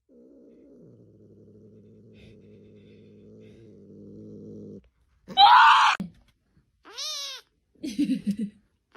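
A cat purring steadily for about five seconds, then a short loud harsh cry, followed by a single meow and a brief low rumbling sound near the end.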